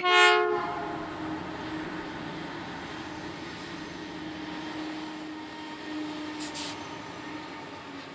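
A short, loud blast of a multi-tone train horn, then the steady rumble of trains passing, with a brief high hiss about six and a half seconds in.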